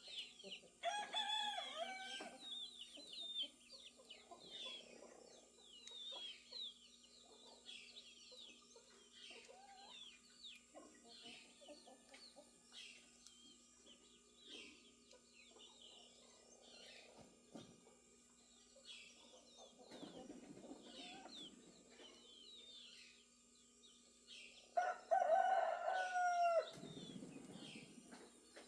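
A rooster crowing twice, once about a second in and again near the end, over small birds chirping throughout.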